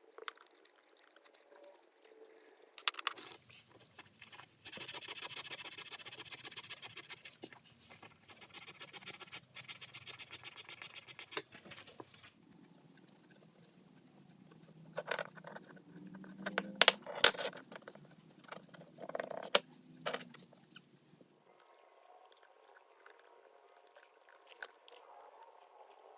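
Rag rubbing and scrubbing on metal saw parts with rubbing compound for several seconds. A few sharp clinks and knocks follow as metal parts are handled.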